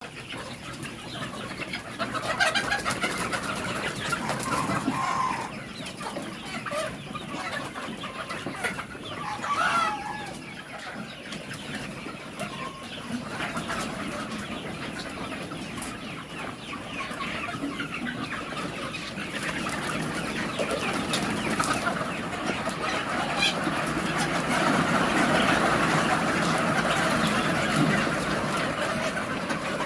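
A flock of Sonali chickens clucking and calling over one another, growing louder and denser after about twenty seconds.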